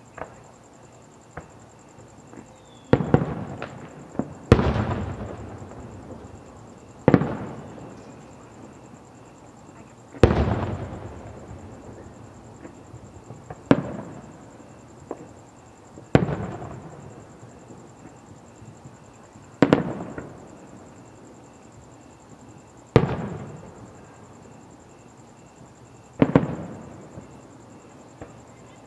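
Aerial firework shells bursting with loud booms, roughly one every three seconds and a quick double near the start, each followed by a rolling echo that fades out. A few small pops come in the first couple of seconds.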